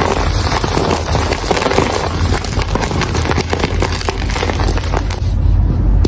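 Gym chalk being crushed and crumbled, a dense run of crunching crackles over a steady low rumble. The crackling thins out near the end.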